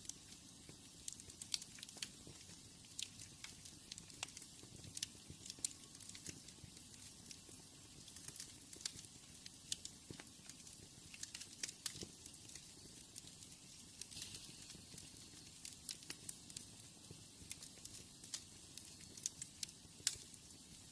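Wood fire crackling, with irregular sharp pops and snaps over a soft hiss, and a low steady purr of a cat underneath.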